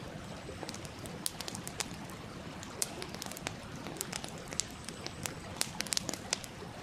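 Wood campfire crackling with many sharp snaps and pops, coming more often in the second half, over the steady rush of a stream.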